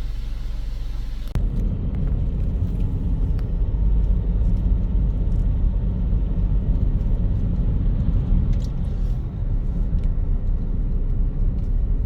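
Low, steady road rumble of a moving car heard from inside the cabin, starting abruptly about a second in.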